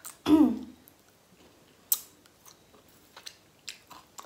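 Close-miked chewing and biting of grilled pork sekuwa, with wet mouth clicks and snips. A brief pitched vocal sound near the start is the loudest moment, and there is a sharp click about two seconds in.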